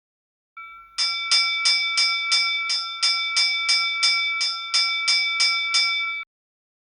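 Ship's bell rung rapidly, about three strokes a second for about five seconds, then stopping abruptly. This is the fog signal of a vessel at anchor in restricted visibility.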